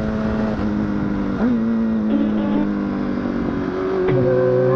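Honda CBR1000RR SC57 inline-four running at steady revs, its note sagging slightly lower with a brief blip about a second and a half in. About four seconds in, a second, lower engine note joins it.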